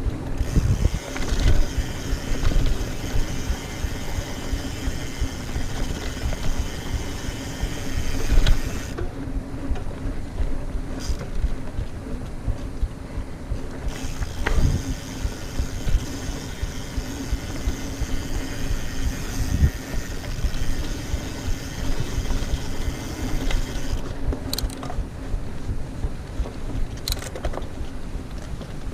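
Mountain bike riding fast over a dirt trail: tyres rumbling, wind on the microphone, and knocks and rattles from the bike over bumps. A high freehub buzz sounds for two long stretches while coasting and drops out when the rider pedals.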